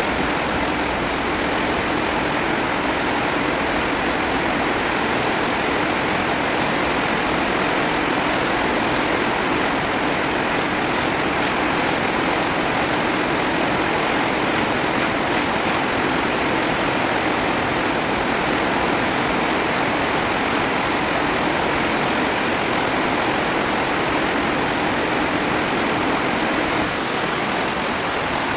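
Steady, unbroken rushing noise of a storm: rain and wind.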